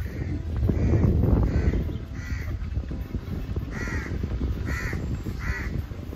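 A bird calling repeatedly, about seven short calls in a row, over a steady low rumble.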